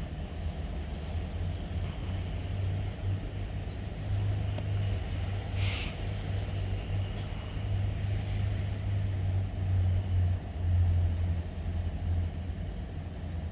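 Diesel locomotive engine running with a steady low rumble, with a short hiss of air about six seconds in.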